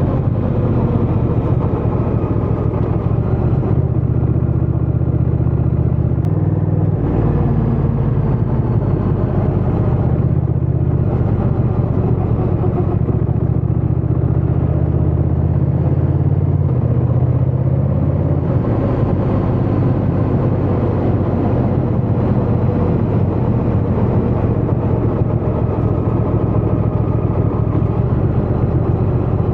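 Honda Rebel 1100 DCT's parallel-twin engine and exhaust running steadily under way, its note stepping in pitch a few times.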